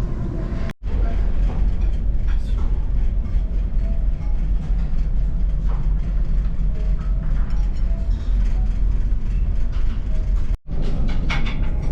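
Steady low rumble of a large car ferry under way, its engines and hull vibration filling the sound, broken by two short edit cuts, just under a second in and near the end.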